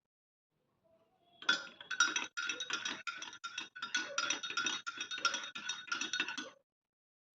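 Metal utensil clinking rhythmically against a bowl, about three strokes a second, as if stirring or whisking. It starts about a second and a half in and stops shortly before the end.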